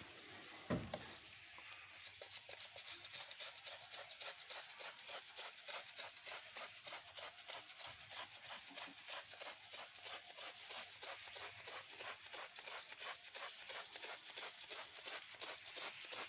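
Repeated hissy cleaning strokes on an engine, about three a second and fairly faint, starting about two seconds in after a single knock.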